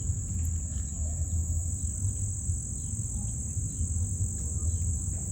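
Insects trilling steadily and high-pitched, with a few faint short bird chirps and a low, constant rumble underneath.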